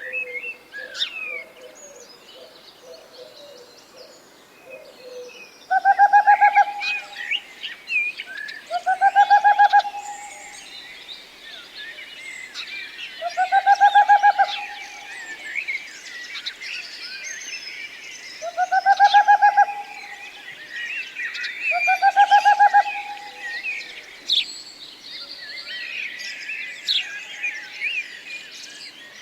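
Wild birds: a background chorus of small birds chirping and twittering in high voices. One lower-pitched bird cuts through it five times, each call a fast, rattling run of notes lasting about a second.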